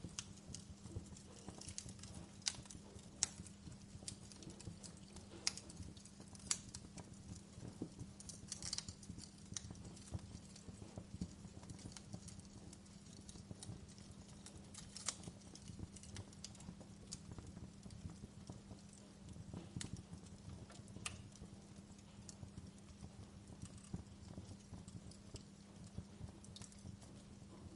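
Wood fire burning in a fireplace, crackling with irregular sharp pops and snaps of the firewood, a few louder than the rest, over a faint steady low hum.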